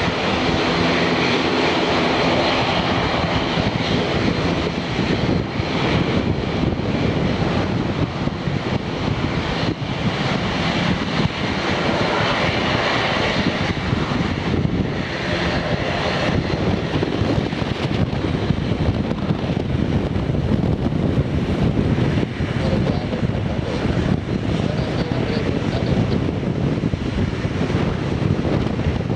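Jet engines of a Boeing 737-800, two CFM56-7B turbofans, running with a loud, steady rush of noise.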